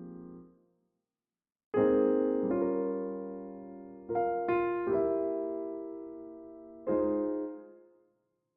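Solo jazz piano playing slow chords, each struck and left to ring out, with a brief stretch of silence near the start and the last chord fading away near the end.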